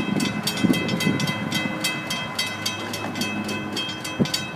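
Florida East Coast Railway freight train approaching a grade crossing, with the crossing bell ringing in a fast, steady rhythm, about five strokes a second.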